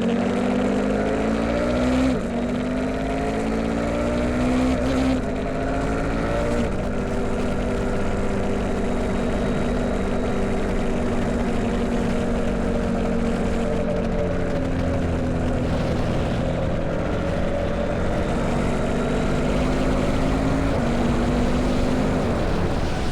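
Motorcycle engine pulling away and accelerating, its pitch climbing and dropping back at upshifts about two and five seconds in. It then holds a fairly steady cruise with small changes in pitch.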